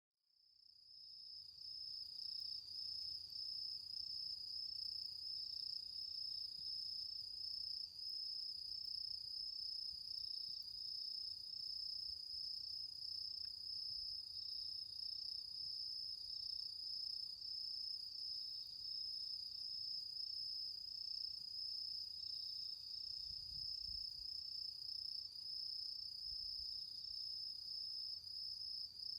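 Crickets singing a steady, high-pitched trill that pulses evenly, fading in over the first couple of seconds.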